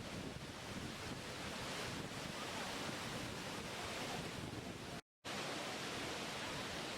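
Steady rushing of falling water, like a waterfall, an even hiss without distinct splashes. It cuts out to complete silence for a moment about five seconds in, then resumes unchanged.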